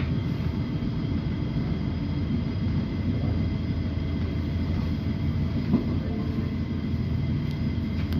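Train running with a steady low rumble and a faint steady whine above it; a single short knock comes a little before six seconds in.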